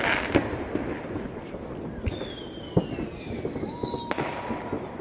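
Fireworks going off: scattered bangs and crackles, with a falling whistle about two seconds in that lasts about two seconds and ends near a sharp bang.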